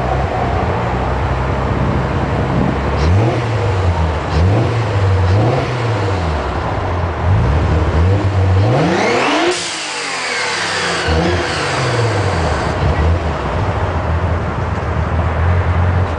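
Nissan 300ZX twin turbo's V6 with a catless 2.5-inch exhaust idling and being revved: several quick throttle blips, then one big rev about nine seconds in, with a hiss at its top, that falls back to idle.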